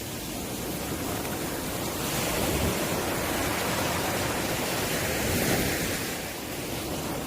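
Ocean surf breaking and washing ashore, a steady rush that swells twice and eases.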